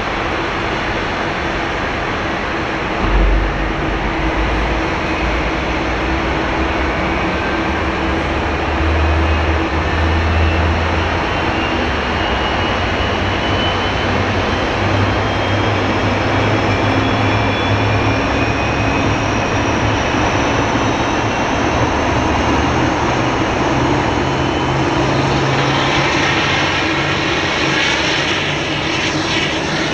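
Jet engines of an Airbus A330-300, General Electric CF6 turbofans, running with a high whine that rises slowly and steadily in pitch. A brief low rumble comes about three seconds in.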